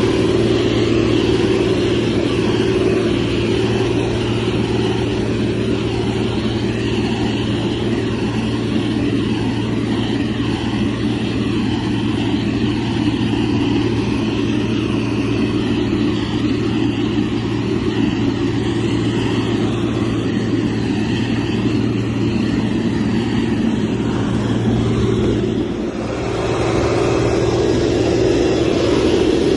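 Diesel engine of heavy road-construction machinery running steadily under work. The engine dips briefly near the end, then picks up again.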